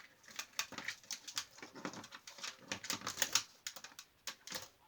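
A white-bellied caique bathing in a small container of water, splashing hard: a rapid, irregular patter of splashes and flicks that stops shortly before the end.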